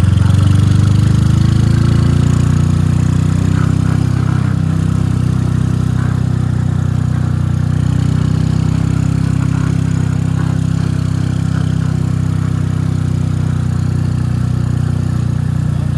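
Motorcycle engine running steadily under way, heard from the rider's seat. Its pitch rises a little over the first couple of seconds, then holds steady.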